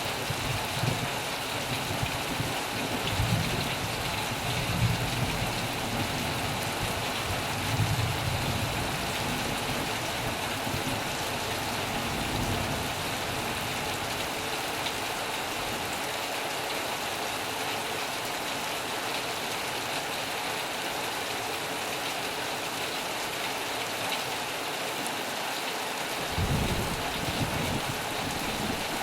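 Steady heavy rain, an even hiss of falling drops, with low thunder rumbles swelling over the first several seconds and once more briefly near the end.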